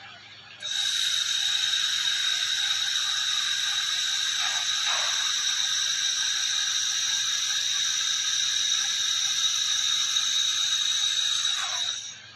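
AKQH-1500 1500 W 3-in-1 laser cleaning, welding and cutting head firing: a steady high-pitched hiss with a whine, starting suddenly about a second in and cutting off near the end.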